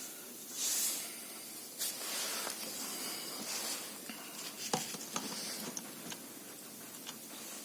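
Several short bursts of hissing spray over a steady hiss, with a sharp click near the middle.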